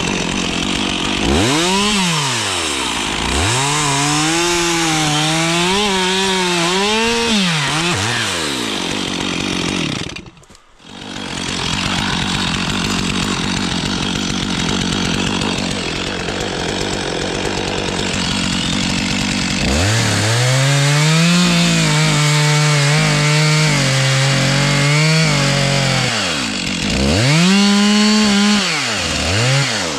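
Stihl chainsaw cutting dead spruce: the engine revs up to full throttle and holds, its pitch dipping under load, then drops back to a lower running note between cuts. There are three such cuts, with a brief break in the sound about ten seconds in.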